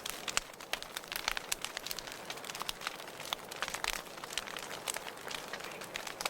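Wood fire burning in a fireplace, with many sharp, irregular crackles and pops over a steady hiss.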